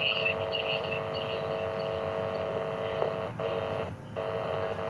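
A steady electronic hum of a few held tones over a hiss, cutting out briefly twice near the end.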